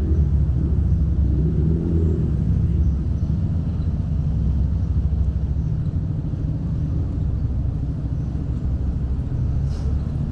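Steady low rumble of outdoor town ambience, without distinct events.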